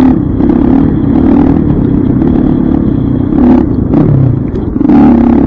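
Dirt bike engine running under throttle, its pitch rising and falling as the throttle is worked, with a brief easing off about four and a half seconds in.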